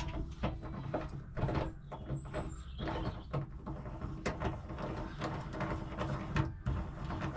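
Hand tool working in the threaded bolt holes of a jet ski's engine mounts to clean out the threads, making a steady run of irregular short scrapes and clicks.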